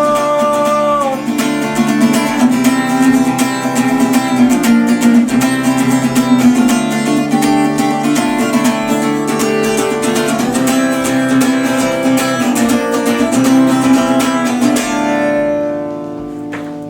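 Acoustic guitar strummed in a steady rhythm through the closing bars of a song, ending on a final chord that rings out and fades near the end.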